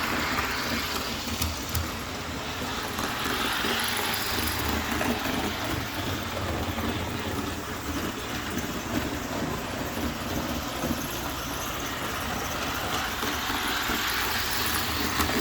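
HO scale Athearn Red Box RDC model running on track: its rubber-band-drive motor whirring and the wheels rolling on the rails, swelling and fading as it passes.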